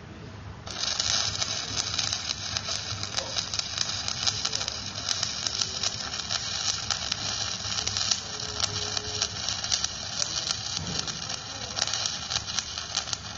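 Electric arc welding on a steel excavator bucket adapter. The arc is struck just under a second in, then crackles and sizzles steadily with a dense patter of small pops.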